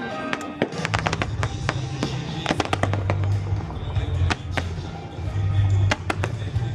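Fireworks going off in a rapid series of sharp bangs and crackles, starting about half a second in, over music with a strong, steady bass.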